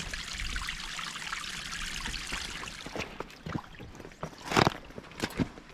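Small creek trickling over stones, then a few footsteps on the creek bed starting about three seconds in, with one heavier step near the end.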